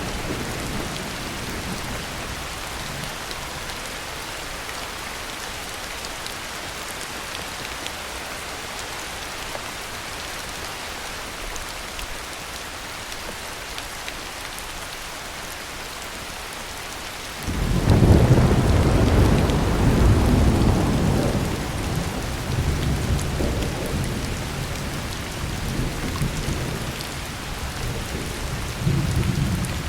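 Steady rain falling, with a rumble of thunder fading out in the first moment. Past halfway a loud thunderclap breaks in suddenly and rolls on for several seconds in swells, with a last swell near the end.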